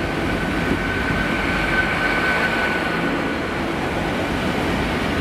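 Great Western Railway Hitachi Class 800 Intercity Express Train running along the platform: a steady rumble of the coaches with a thin high whine that fades away in the second half.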